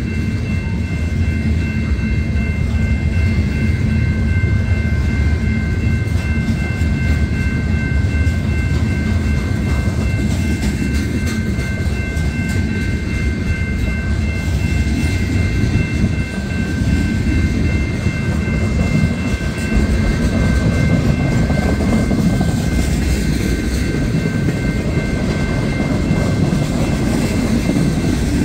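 Freight cars (steel-coil flatcars, covered hoppers, then tank cars) rolling steadily past at close range: a continuous rumble and rattle of steel wheels on rail, with a steady high whine held over it.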